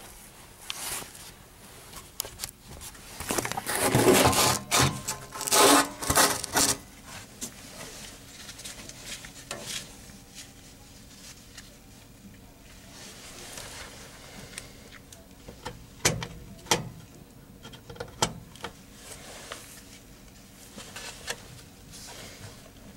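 Rubbing and scraping handling noises with scattered sharp clicks, loudest in a run of scrapes about four to seven seconds in.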